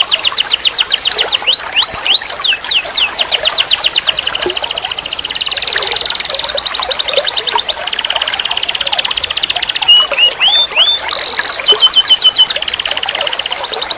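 Domestic canary singing a continuous song of fast trills of rapidly repeated notes, broken by short rising whistles and held rolls, switching to a new phrase every second or two.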